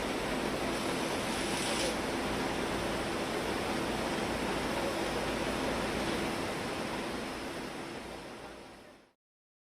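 Steady rushing of a typhoon-swollen river in flood, fading out near the end.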